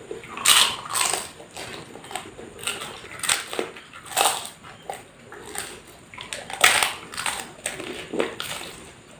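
Close-miked chewing of crisp food, with sharp crunches every second or so as the food is bitten and chewed.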